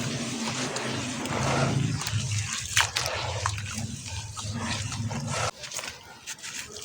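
Sand-cement shapes crumbling in water: gritty crackling and fizzing with scattered sharp clicks and drips. A low steady hum runs underneath and stops about five and a half seconds in.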